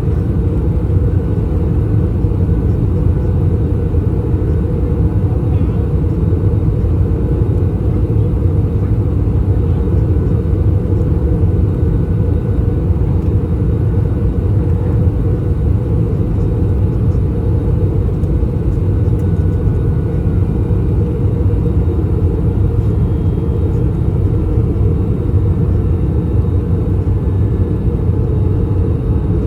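Steady low rumble of cabin noise inside an Airbus A321 in descent: airflow over the fuselage and its IAE V2533-A5 turbofan engines, heard from a seat in the rear cabin.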